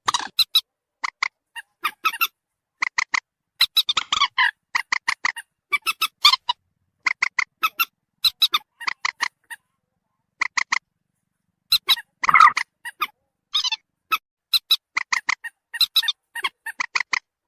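Common moorhen calls played as a trapping lure: short, sharp clucking notes in quick groups of two to four, repeated with brief pauses and one longer gap about halfway through.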